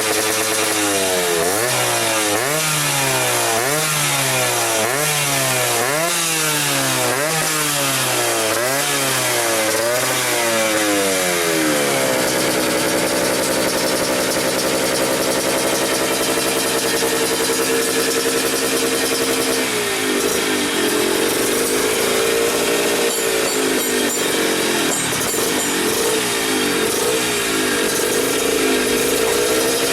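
Yamaha F1ZR's two-stroke single-cylinder engine running through an aftermarket galvanized-plate trail exhaust. It is blipped about ten times in quick succession, roughly once a second, then held at a steady speed, then revved gently up and down near the end. The exhaust note is crisp and raspy.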